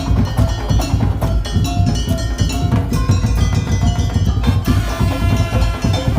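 Madurese daul percussion ensemble playing an up-tempo arrangement: heavy drums with wooden percussion and short repeating pitched notes in a steady driving beat.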